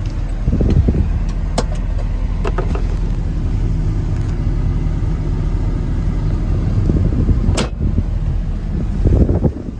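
1976 Chevrolet truck's engine running steadily, with a few sharp clicks or knocks over it and brief surges about a second in and near the end.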